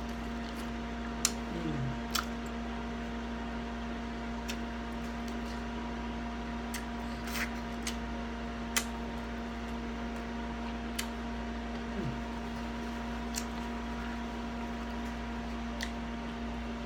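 A person eating a sauced, grilled baby back rib: scattered wet mouth clicks and smacks while chewing, over a steady electrical hum.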